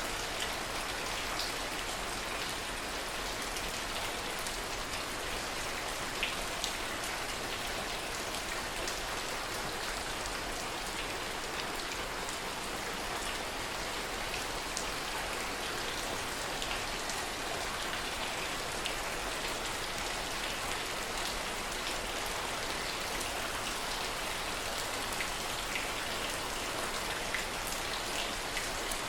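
Steady rain falling, with the taps of single drops scattered through it.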